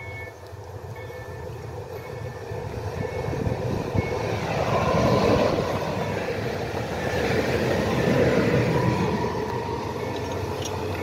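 Electric multiple-unit passenger train passing close by on the rails. Its rumble and wheel noise build from about four seconds in, peak twice a few seconds apart, then fade as it moves away.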